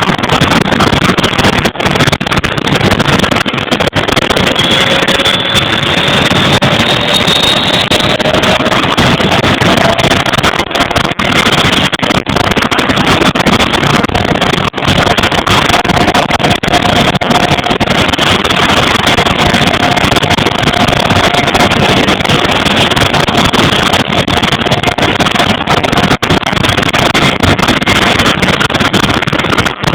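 Vickers Vanguard's Rolls-Royce Tyne turboprop engines running loud and steady on an engine run. A whine rises in pitch from about four seconds in, then holds level.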